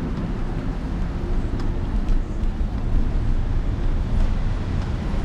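Steady low rumble of wind buffeting the microphone and street traffic noise during a bicycle ride, with a few faint clicks.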